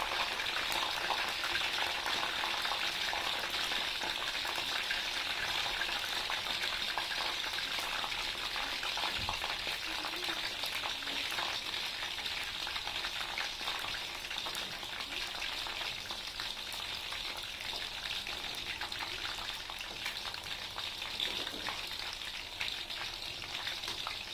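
Eggplant chunks deep-frying in hot oil in a wok: a steady sizzle with fine crackling, easing slightly toward the end.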